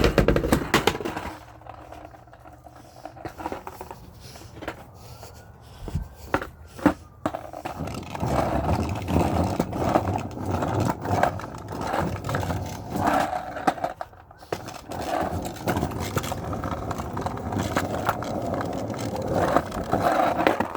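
Skateboard with new wheels rolling along a wet sidewalk: a few sharp knocks about six to seven seconds in, then a steady rolling rumble that lasts to the end.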